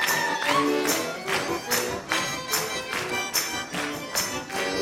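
Russian garmon (button accordion) playing an instrumental chastushka dance tune between sung verses, with sharp percussive beats about twice a second.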